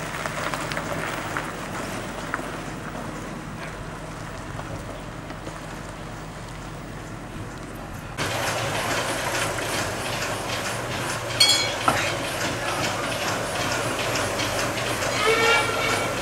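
About eight seconds in, the sound jumps to a small diesel shunting locomotive and its coaches moving slowly on the track. Wheels tick over the rails, and there are two short metallic squeals, one a few seconds after the jump and one near the end. Before that there is only a quieter, steady yard background.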